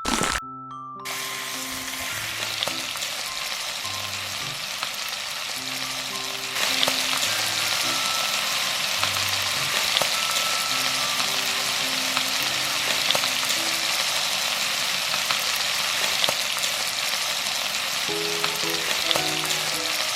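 Food frying in hot oil in a small pan, a steady crackling sizzle that gets louder about six and a half seconds in.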